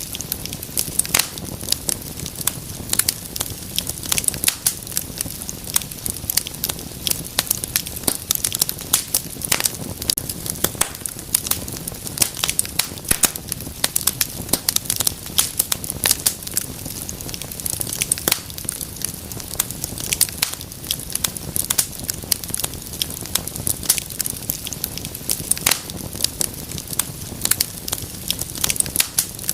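Wood fire burning with dense, irregular crackles and pops over a steady low rumble of flame.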